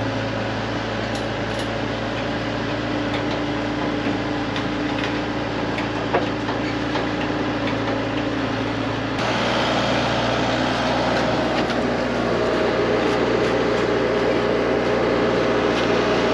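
Skid loader engine running steadily, with an abrupt shift in its sound about nine seconds in.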